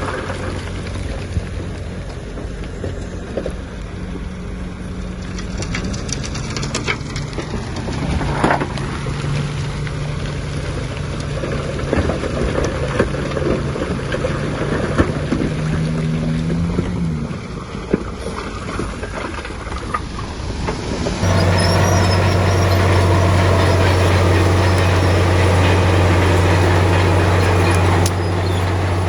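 Heavy diesel engines of earthmoving machinery working, the engine note rising and falling under load, with scattered knocks and clanks. About two-thirds of the way in, the sound cuts abruptly to a louder, steady engine drone.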